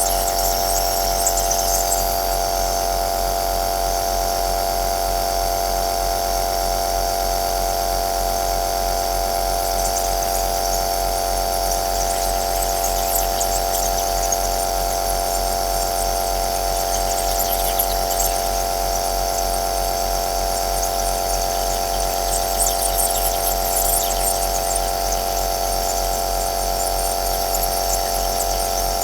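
Compressor nebulizer running steadily: a constant electric motor hum with a high hiss of air and mist that flares up a few times.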